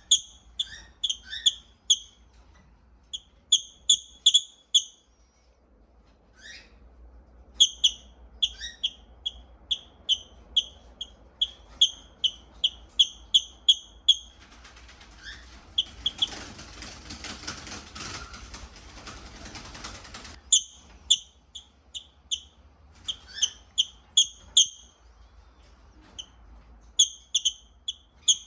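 Lovebird chirping: runs of short, high, sharp chirps, about three a second, broken by pauses. In the middle the chirps stop for several seconds and a soft rustling noise takes their place.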